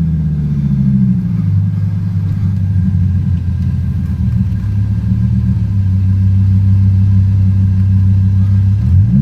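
2002 Hennessey Dodge Viper's V10 engine heard from inside the cabin while driving. It settles as the car slows in the first second, runs low and steady at low revs, then revs up sharply near the end as the car accelerates.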